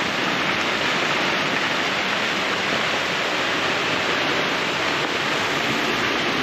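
Heavy rain pouring onto the sailboat's deck, tarp and the sea around it, driven by strong wind: a steady rushing hiss that does not let up.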